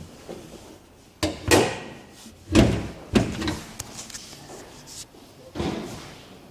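A series of about five heavy slams or thumps, the loudest about two and a half seconds in.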